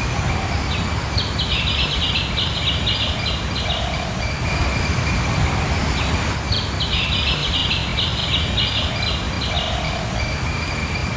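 Outdoor ambience: a steady low rumbling noise, with a high chirping call repeated in quick pulses, about three a second, in two runs of around three seconds each.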